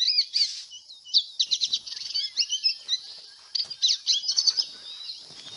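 Small birds chirping and twittering in rapid, high, sweeping notes, with faint knocks underneath; the sound cuts off suddenly at the end.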